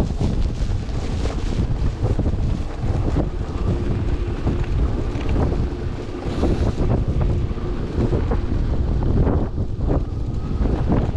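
Strong wind buffeting the microphone of a rider on a moving electric bike in a blizzard: a steady, gusting low rumble.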